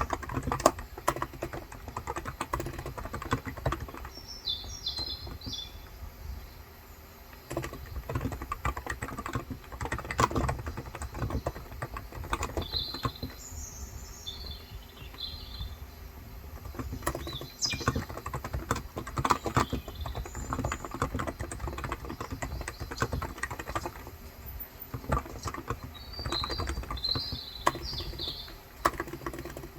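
Steady typing on a Cox Endeavor electrostatic-capacitive tenkeyless keyboard with 35 g switches, dense key clicks with a brief pause about seven seconds in. Birds chirp in short high bursts three times.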